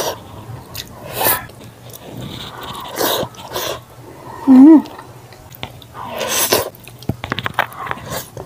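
Close-miked eating sounds: wet chewing and lip smacking as handfuls of rice and meat go into the mouth, in several short bursts. About halfway through comes one brief, loud pitched sound.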